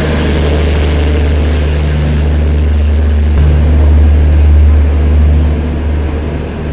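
Passenger train of LHB coaches at a station platform, with a deep, steady engine hum that grows louder about three and a half seconds in.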